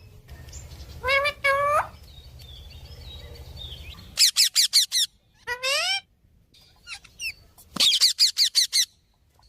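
Pet parrot calling. Two short, rising calls come about a second in. Fast runs of shrill repeated chirps follow around the middle and near the end, with a drawn-out call between them.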